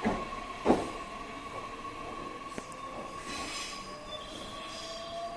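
Electric train pulling away and accelerating, with two loud clanks of the wheels over the rail joints within the first second. A motor whine rises slowly in pitch as it gathers speed, and a faint wheel squeal comes about three seconds in.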